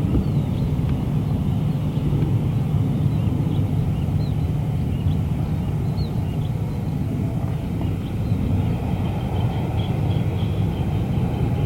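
Jet airliner engines at takeoff power, a steady low rumble, with faint short bird chirps above it.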